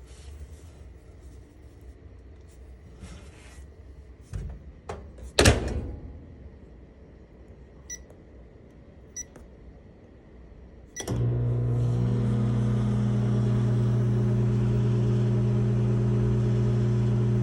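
Microwave oven: a door shut with a sharp knock, two short keypad beeps, then the oven starts and runs with a steady, loud electrical hum.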